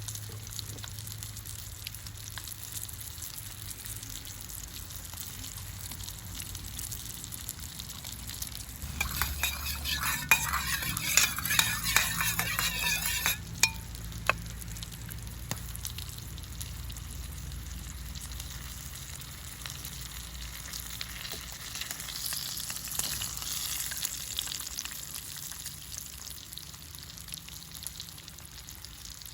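Food frying in hot oil in a pan: a steady sizzle, which swells into loud crackling for a few seconds about a third of the way in, then settles back to a steady sizzle.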